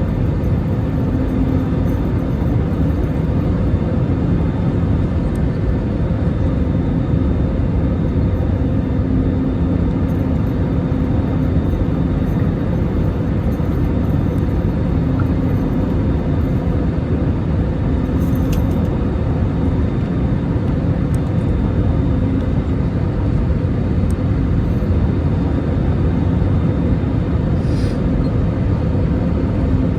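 Airbus A320neo airliner noise: a loud, steady rumble with a constant low hum.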